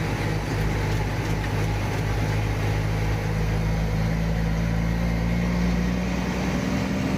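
Truck engine running steadily under way, a low hum whose pitch creeps up slightly and then shifts near the end.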